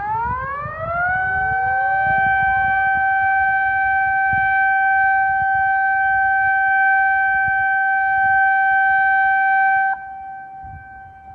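Municipal outdoor warning siren sounding a tsunami advisory over public loudspeakers. It rises over about a second to a steady wail, holds for about nine seconds, then cuts off about a second before the end, leaving a faint echo.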